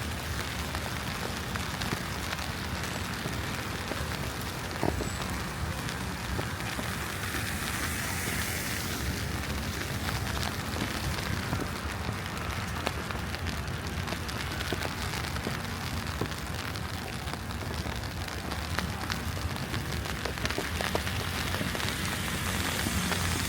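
Street ambience in falling wet snow: an even hiss over a steady low city rumble, with scattered light ticks.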